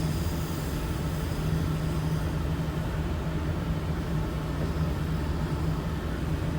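Half-scale Case steam traction engine running, a steady mechanical rumble with a constant low hum.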